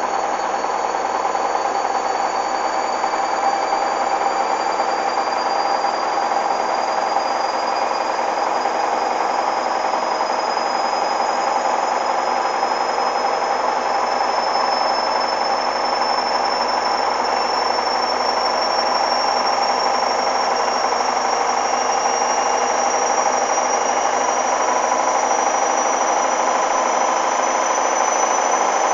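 Hoover DYN 8144 D washing machine spinning: a steady high motor whine rising slowly in pitch as the drum gathers speed, over the running noise of the drum.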